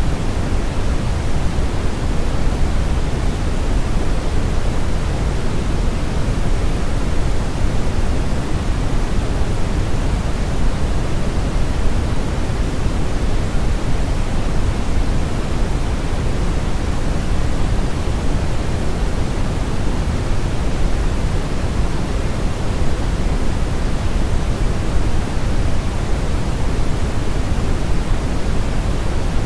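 Steady brown noise: an even, unchanging rush of random noise with most of its energy deep in the bass, falling away toward the treble.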